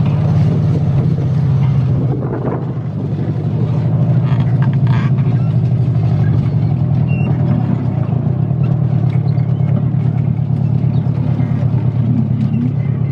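An engine running at a steady speed: a continuous low drone that dips briefly, with a few faint clicks about four to five seconds in.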